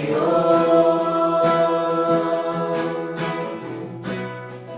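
Group of voices singing a Portuguese worship song, holding the word 'Senhor' as one long note for about three and a half seconds, with an acoustic guitar strummed along.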